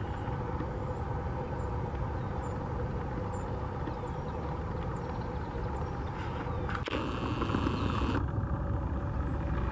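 Jet engine rumble from a Boeing 787-8's Rolls-Royce Trent 1000 engines on takeoff, steady and growing a little louder near the end. Small birds chirp about once a second above it, and a sudden hiss cuts in for about a second about seven seconds in.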